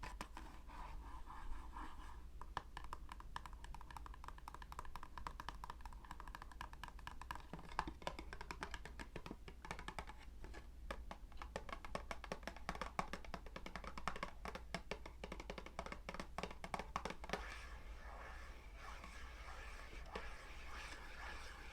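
Quick, dense tapping and scratching, the kind of ASMR trigger made by fingers working on an object. It starts about two seconds in and stops a few seconds before the end, over a faint steady hum.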